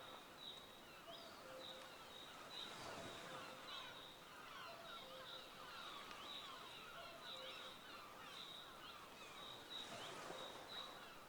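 Faint chorus of many birds calling, a dense stream of short overlapping chirps and squeaks.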